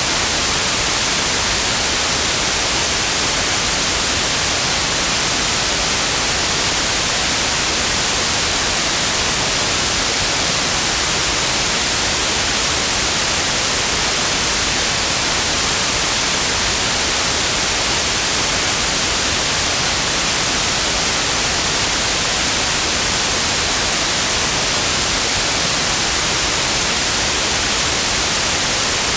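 Synthetic white noise: an even, steady hiss, constant throughout, brightest in the high frequencies.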